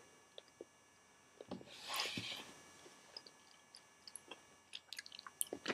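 Faint, scattered wet mouth clicks from chewing a soft, sticky caramel candy, with one short soft hiss about two seconds in.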